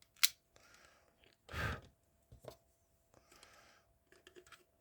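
Small clicks and cracks of glued plastic model parts being pried apart by hand: a sharp click at the start, a louder, duller crack about a second and a half in, and a run of small clicks near the end.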